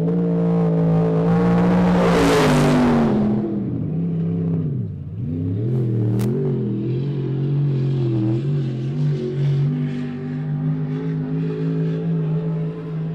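Race car engine running hard at speed, heard from inside the car: a steady engine note with a loud rush of noise about two seconds in, then the revs drop sharply around five seconds, as when lifting off for a turn, and climb back up. A single sharp click near six seconds.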